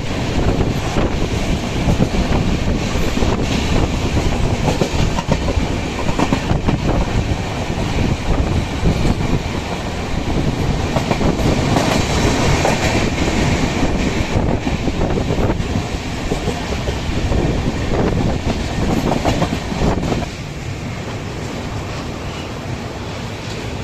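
Passenger train coach running on the line: a steady rumble with the clickety-clack of wheels over the rails. The noise drops noticeably about twenty seconds in.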